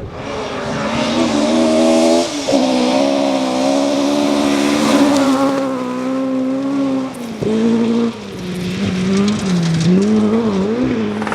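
Rally car engine at high revs through a stage. Its note climbs and breaks at an upshift about two seconds in, then holds. It cuts briefly twice past the middle and wavers up and down near the end as the throttle is worked.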